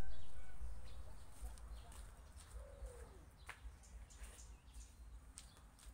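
Faint outdoor ambience with a bird calling: one short falling note about three seconds in, over a low rumble that fades during the first few seconds and scattered faint ticks.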